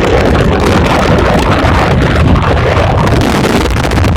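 Loud wind buffeting the microphone over the low rumble of a moving vehicle.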